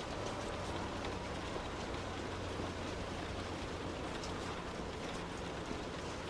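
Heavy rain on a moving car: a steady wash of rain and wet-road noise with a low hum underneath, and scattered drops tapping on the body.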